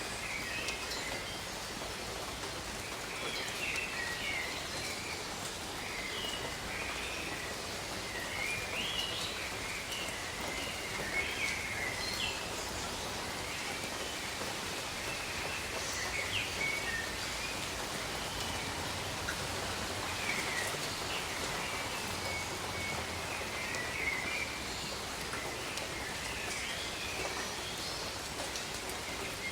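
Steady rain falling in a tropical jungle, with birds chirping on and off throughout.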